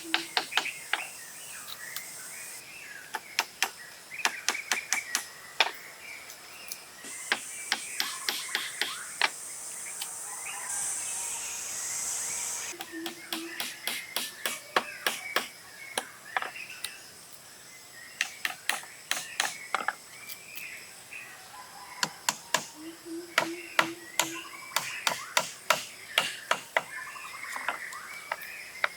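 Runs of quick, sharp hand-tool strikes, several a second, coming in bursts and pausing between them, over birds chirping and insects buzzing.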